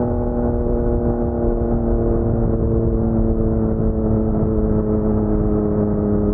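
Yamaha MT-09's crossplane three-cylinder engine through an Akrapovic carbon full-system exhaust, running at low, steady revs with its pitch easing slowly down.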